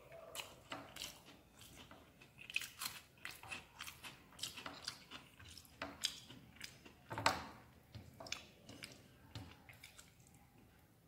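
A person eating rice and chicken curry by hand: close chewing and mouth clicks, with soft sounds of fingers mixing rice on a plate. The clicks are irregular, with one louder click about seven seconds in.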